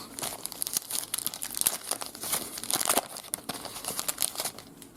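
Paper trading card pack wrapper being torn open and crumpled by hand: a dense run of quick crinkling crackles that dies away just before the end.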